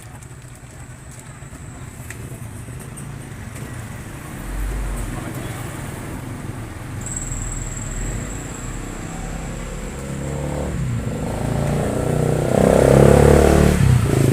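Motor vehicle engine running with a low rumble, getting louder over the last few seconds.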